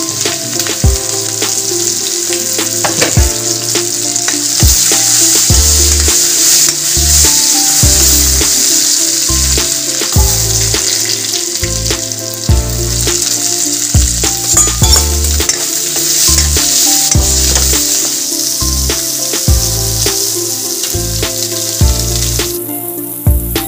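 Green leaves, onions and green chillies sizzling as they fry in hot oil in an iron kadai, stirred with a metal spatula; the sizzle drops away near the end. Background music with a steady bass beat plays underneath.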